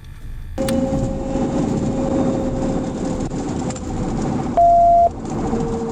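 Police pursuit truck running at speed, its engine and road noise jumping up suddenly about half a second in. Near the end comes a single loud electronic beep about half a second long.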